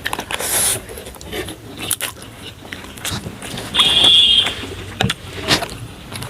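Close-up eating sounds of instant noodles being chewed and slurped, with scattered small clicks and a brief high squeak about four seconds in.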